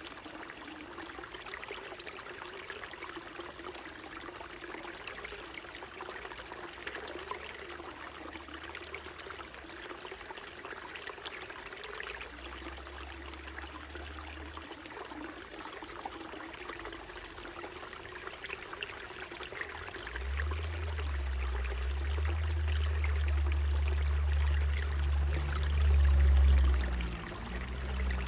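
Small mountain stream trickling and babbling steadily over rocks. About two-thirds of the way through, a low rumble rises underneath and is loudest shortly before the end.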